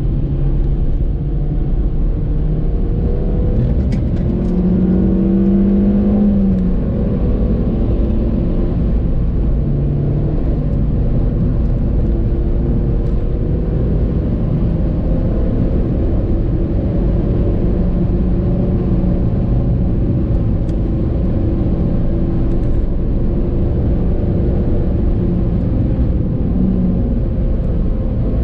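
2014 Suzuki Swift Sport's stock 1.6-litre four-cylinder engine pulling hard on track, its pitch climbing and then dropping with gear changes, over steady road and tyre noise.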